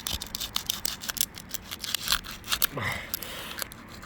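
Roof shingle being pried up with a scraping tool: a quick, irregular run of sharp scrapes, clicks and crackles as its sealant glue line tears loose.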